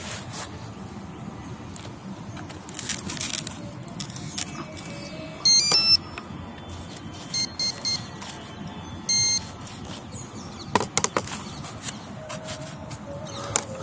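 Several short bursts of electronic beeps: a quick run of changing tones about five and a half seconds in, then paired beeps a couple of seconds later and one more beep about nine seconds in, over a steady background hiss. A few sharp clicks follow near the end.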